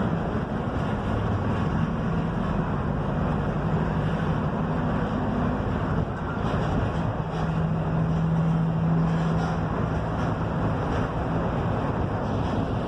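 Mercedes-Benz OF-1721 bus's diesel engine running steadily under way, heard from inside the cabin, with road and wind noise; the engine hum holds one even pitch for a couple of seconds near the middle.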